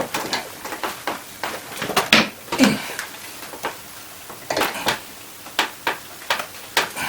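Irregular knocks and clinks of metal pieces and tools being handled and set down on a workbench, a dozen or so separate hits, some ringing briefly.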